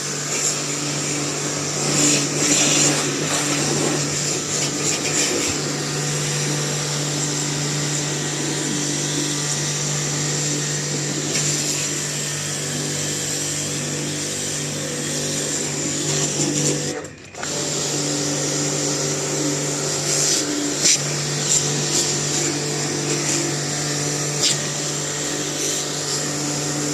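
Electric pressure washer running steadily with a motor hum, used to wash a dirty air conditioner. It cuts out for a moment about seventeen seconds in and starts again.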